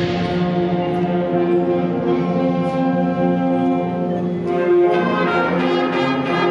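Middle school concert band playing sustained, brass-heavy chords. About five seconds in, the band moves into a busier passage with regular percussion hits.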